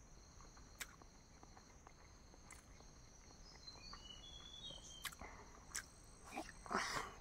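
Quiet eating: soft chewing with small mouth clicks, over a steady high insect trill with a few short bird chirps. A louder brief noise comes near the end.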